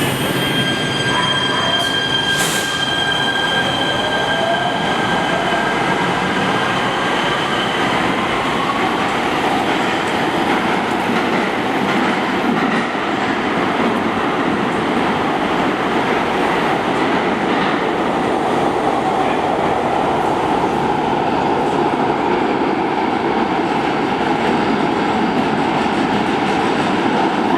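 Los Angeles Metro Rail train running through the station with a steady, loud rumble of wheels on rail. In the first few seconds its motors whine up in pitch as it gathers speed.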